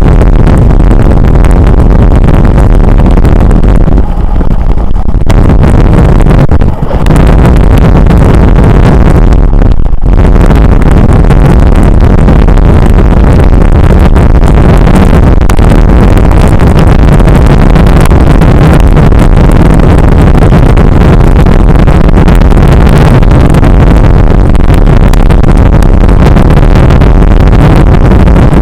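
Loud, constant wind rumble buffeting the microphone of a camera on a moving bicycle, mixed with road noise, with a few brief lulls early on.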